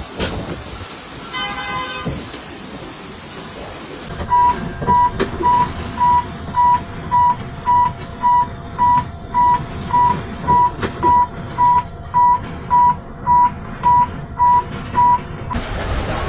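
Electronic alarm beeping, one high steady-pitched beep repeated about twice a second for some eleven seconds, over a rumble of wind and rain noise. A brief pitched tone sounds about a second and a half in, before the beeping starts.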